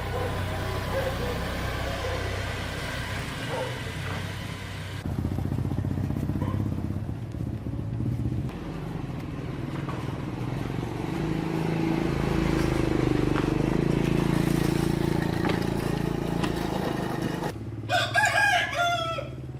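A steady low mechanical hum that changes abruptly a few times, then a rooster crowing once near the end.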